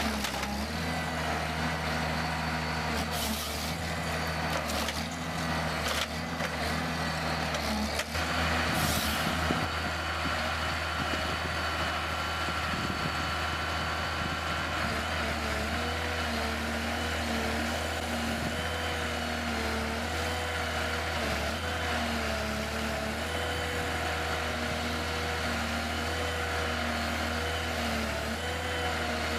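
Heavy diesel machinery running steadily, with a short hiss about nine seconds in and a wavering whine later on.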